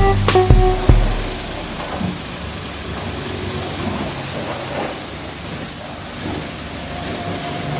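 Steady hiss of pressure-washer water spray at a car wash. Music cuts off about a second in.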